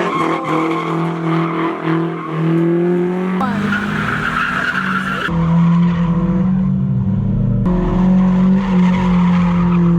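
Car engine held at high revs with tyres squealing and skidding as it spins donuts. The engine note stays steady but jumps abruptly a few times.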